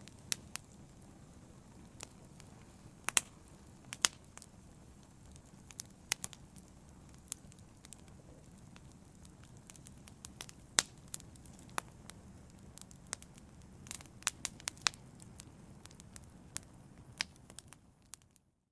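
Wood fire crackling in a fireplace: a soft steady hiss broken by irregular sharp pops and snaps, a few of them loud. It fades out at the very end.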